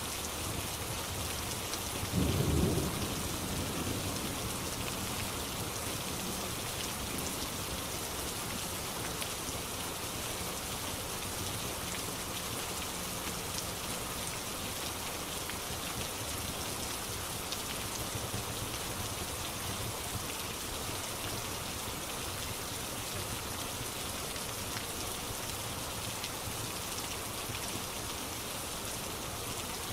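Steady hiss of rain, with a short, low rumble of thunder about two seconds in.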